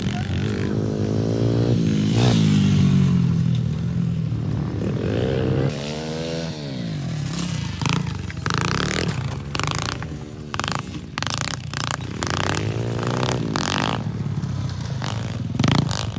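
Pit bike engine revving up and dropping back several times, with some clattering.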